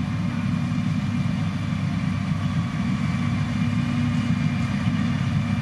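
Engine of a heavy construction machine running steadily with a low rumble.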